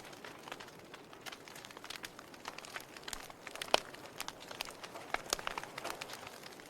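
Wood fire crackling: burning logs giving irregular sharp pops and snaps over a steady hiss, with one louder pop near the middle.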